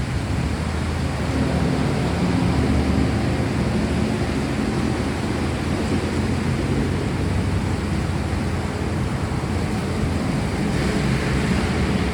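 Steady rain hiss under a long, low rumble of rolling thunder. The rain grows a little brighter near the end.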